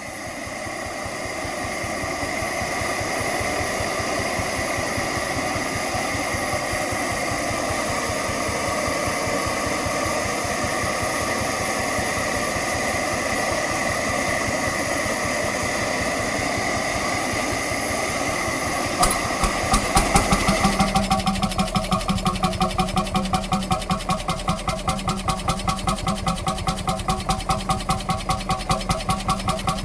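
Vintage engine running steadily with a constant hum. About two-thirds of the way through, a few sharp clicks come in, and a different engine sound with a regular pulsing beat of several strokes a second takes over.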